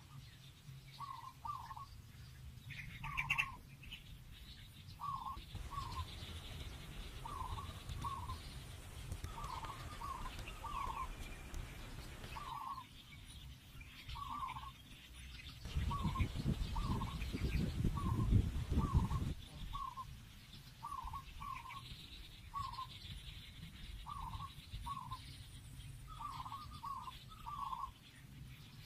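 A bird calling over and over in short falling notes, often in twos or threes, about once a second. About two-thirds of the way through, a louder low rumbling noise lasts for about three seconds.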